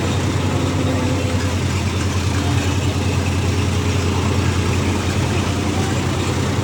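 Tractor diesel engine running steadily, a deep even hum at a constant level.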